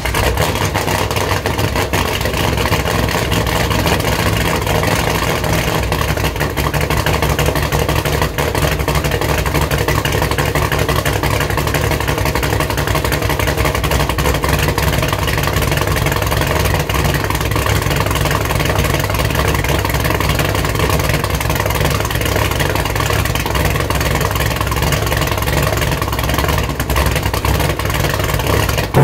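LSX V8 in an LS-swapped BMW sedan idling steadily, heard from behind at the quad exhaust tips.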